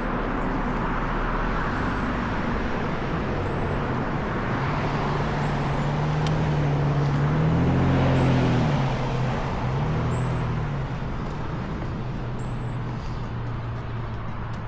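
Road traffic: steady road noise with a motor vehicle's engine hum swelling to its loudest about eight seconds in, then fading as it passes.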